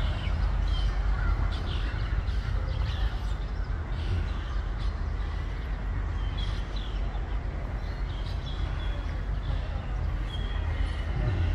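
Small birds chirping in short, high calls, repeated many times over a steady low rumble.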